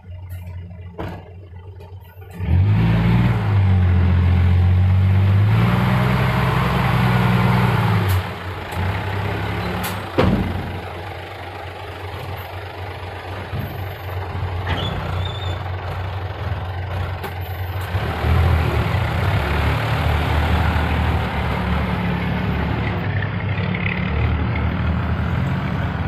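Six-wheel dump truck's diesel engine starting to rev hard about two and a half seconds in, rising and falling for several seconds, then running lower and picking up again near the end. A single short sharp sound comes about halfway through.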